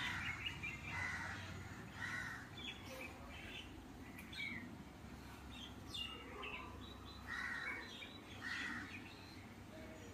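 Birds calling: short, harsh calls repeating every second or two, over a faint steady low hum.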